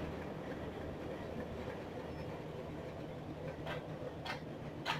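Steady low hum of a standing diesel passenger train idling at the platform. Near the end come three footsteps on the concrete platform, about two a second.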